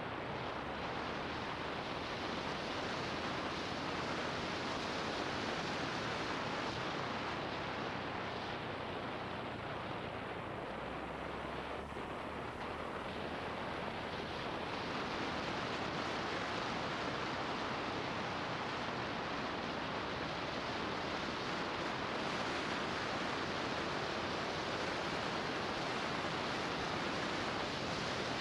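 Steady rush of wind noise on the microphone of a moving motorbike, with a faint low engine hum underneath.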